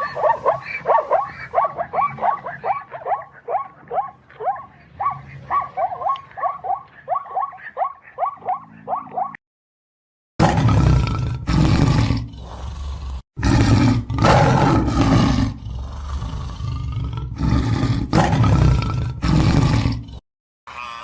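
A fast run of short, falling animal calls, about three a second, stops after about nine seconds. After a brief silence a big cat roars, several long, loud roars with short breaks between them.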